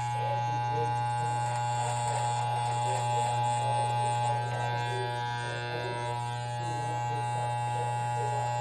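Electric shaver running with a steady low buzz during a shave, with softer wavering sounds underneath.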